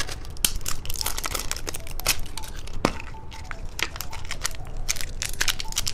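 Candy wrapper crinkling and tearing as a surprise-egg candy is unwrapped by hand, a dense run of irregular sharp crackles.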